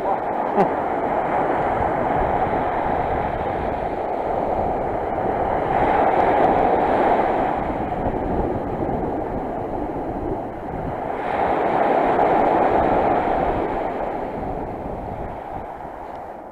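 Sea surf: waves washing onto the shore in a steady rush, two of them swelling louder about five seconds apart.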